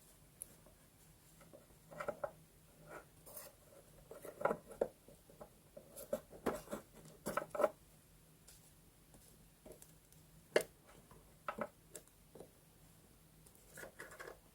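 Close-up paper and stationery handling for journal decorating: scattered small rustles, taps and scratches, busiest from about two to eight seconds in, with a few separate clicks later.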